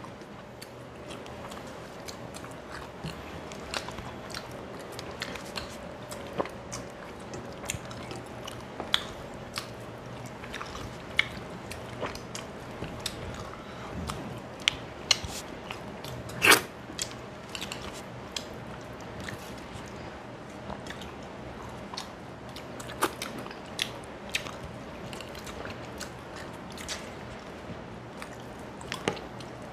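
Close-miked chewing and mouth sounds of a person eating rice and fish by hand, with many short, sharp clicks and smacks scattered throughout; the loudest comes about sixteen seconds in. A faint steady hum sits underneath.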